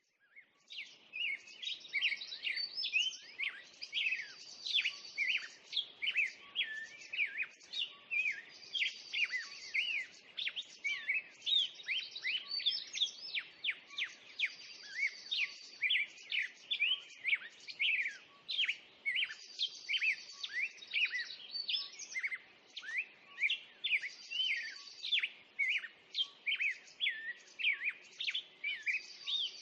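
Songbirds singing and chirping in a dense chorus, many quick rising and falling whistles, with a high trill coming back every five seconds or so.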